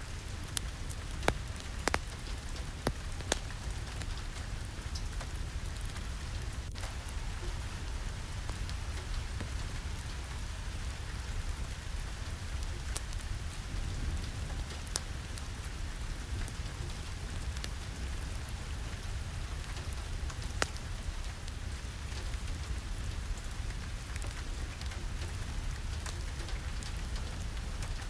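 Steady rain falling on a surface, with a low rumble beneath and scattered sharp ticks and cracks at irregular intervals.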